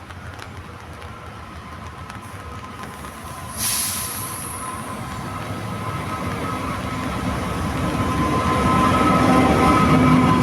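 A train approaching on the rails, growing steadily louder. About three and a half seconds in, a sudden hiss flares and fades. Steady thin whining tones build in over the last few seconds as it draws near.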